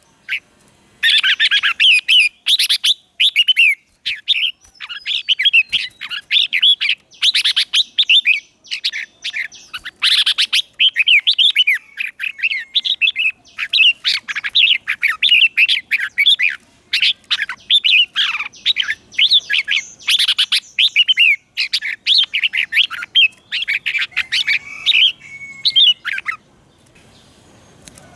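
Red-whiskered bulbul singing: a rapid run of short, bright warbling phrases with brief gaps between them, falling quiet about two seconds before the end.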